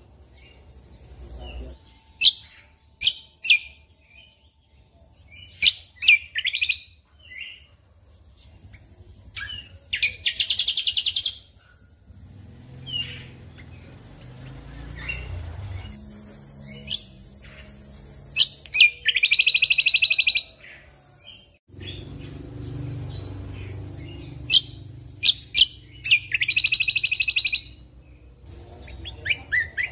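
Cucak kombo (kecial kombok) songbird singing in full voice: strings of short, sharp chirps broken by three buzzy rapid trills, each about a second and a half long.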